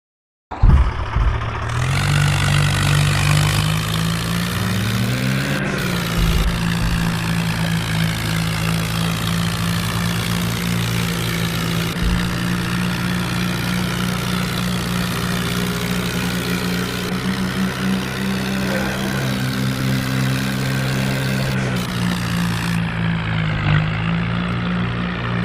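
Tractor engine running steadily, starting abruptly about half a second in, with a brief rise and fall in engine speed a few seconds later.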